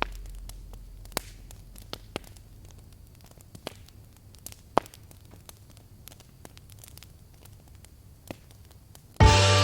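Fireplace crackling, with scattered sharp pops over a faint hiss, as the previous song's last notes fade away; music starts again abruptly near the end.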